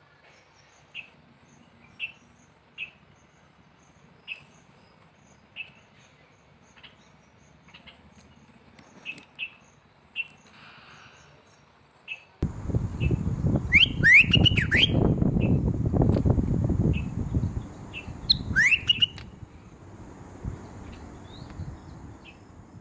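Bulbul chirping: short high chirps about once a second, then louder clusters of sliding calls twice in the second half. A loud low rumbling noise starts suddenly about halfway through and fades near the end.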